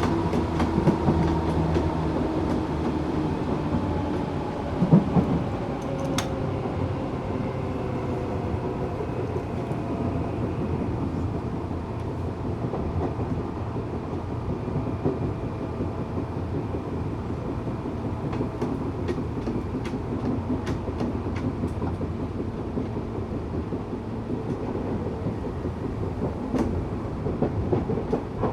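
A Tokyu 8500 series electric train with Toyo-made traction motors, heard from on board. Its motor tones glide downward over the first several seconds and then fade. After that come steady running noise and wheel clicks over rail joints, with a thump about five seconds in.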